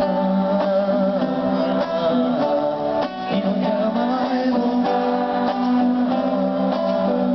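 Strummed acoustic guitar playing with voices singing along, steady throughout.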